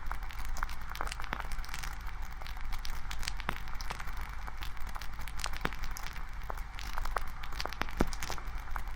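Wood campfire crackling: irregular sharp pops and snaps over a steady hiss from the burning fire.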